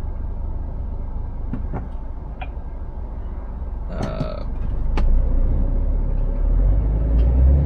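Scania S500 lorry's V8 diesel engine running, heard from inside the cab: a low, steady rumble that grows louder over the last three seconds. A few light clicks and a brief higher-pitched sound about four seconds in sit over it.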